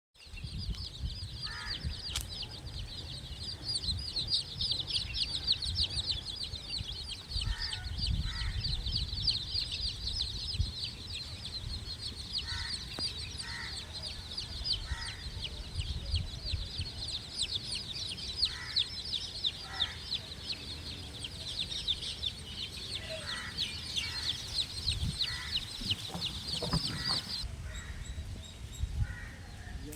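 A brood of chicks peeping continuously in a rapid, high-pitched stream, with a hen's short clucks every few seconds. The peeping cuts off suddenly near the end.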